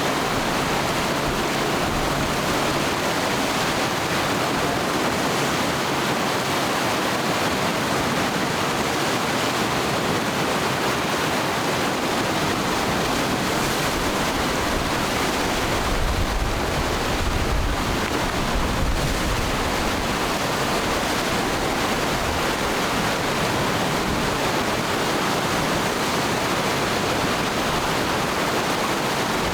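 Rapids of the Matanuska River at a very high flow, white water rushing by in a steady, dense, unbroken wash of noise.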